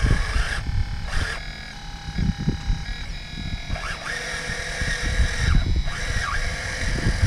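Electric drive motors of an RC4WD scale bulldozer whining as it drives, starting and stopping. The main whine rises about four seconds in, holds, and cuts off a little later. Under it runs an uneven low rumble with knocks.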